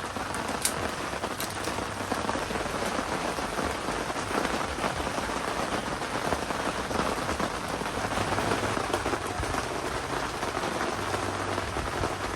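Heavy typhoon rain falling steadily, a dense stream of drops striking a surface, with a couple of sharper drip clicks near the start.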